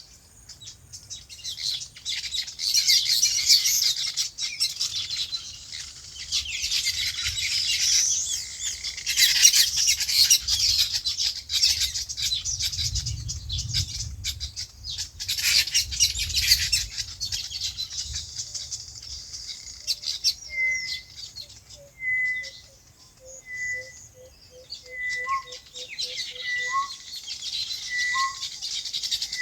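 Many small birds chirping and chattering densely together. The chatter thins out about two-thirds of the way through, leaving one bird's call repeating about every second and a half, with a run of quick, low pips near the end.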